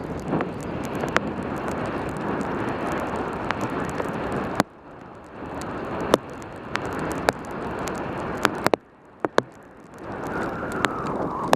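Rushing wind and rain noise on a helmet camera's microphone during a fast bicycle descent in pouring rain, scattered with sharp ticks of raindrops hitting the camera. The rush drops off suddenly about halfway through and again later, then builds back up.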